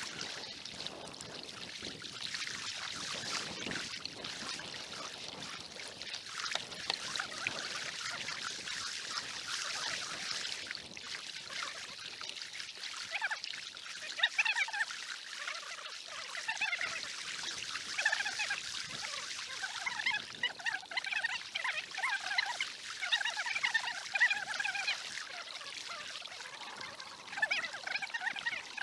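Water splashing and trickling around a kayak: a steady hiss in the first half, then busy, irregular little splashes and gurgles from about halfway on.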